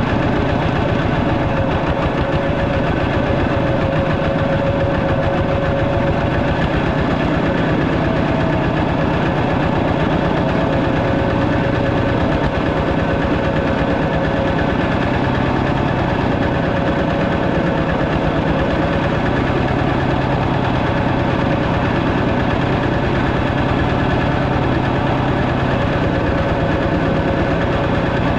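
A two-wheel walking tractor's engine running steadily at an even speed, with a fast, regular pulsing.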